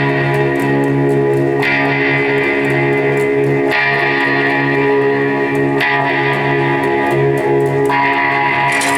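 Live band music led by amplified electric guitar, held chords changing about every two seconds.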